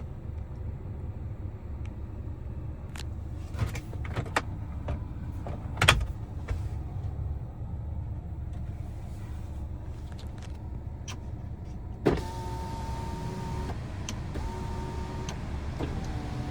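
A few clicks and knocks over a low steady rumble, the loudest knock about six seconds in. From about twelve seconds a car's small electric motor whines in three short runs, the last a little lower in pitch.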